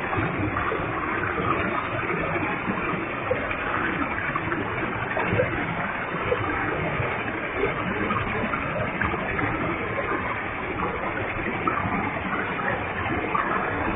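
A waterfall with heavy flow: water falling and splashing in a steady, unbroken rush.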